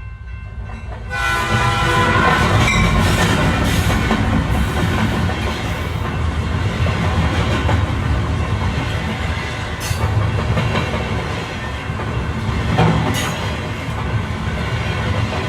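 A train running with a steady rumble of wheels on the track. Its horn sounds for about two seconds, about a second in.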